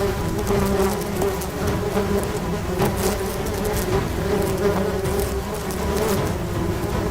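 A steady pitched buzzing drone that wavers slightly and keeps an even level.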